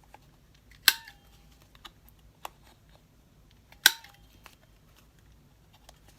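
A hand cutting tool snapping through the corners of a paper tag: two sharp snaps about three seconds apart, each with a brief metallic ring, and a few faint ticks of handling between them.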